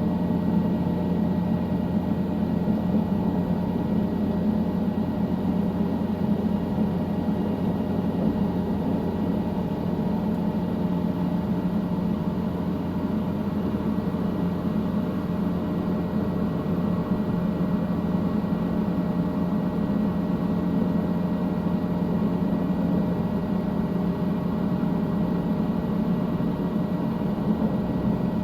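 Steady drone of a helicopter in flight, heard from inside the cabin: engine and rotor noise with a few thin steady tones above it, unchanging throughout.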